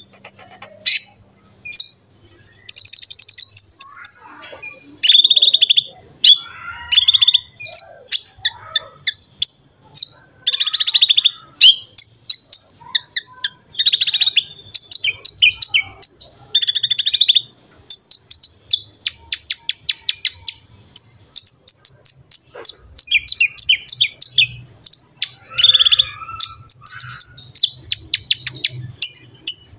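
A konin (kolibri ninja) sunbird singing vigorously. It gives a near-continuous string of high, sharp chirps, fast ticking trills and rapid warbled phrases with only brief pauses.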